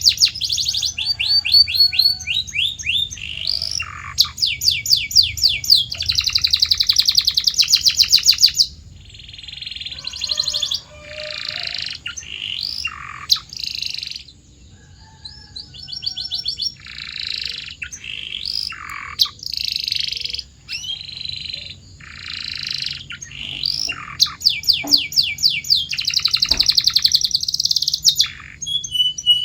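Domestic canary singing a long song of rapid trills, each a fast run of repeated high notes, changing from phrase to phrase with short pauses between. The trills are loud at first, softer and more broken in the middle, and loud again near the end.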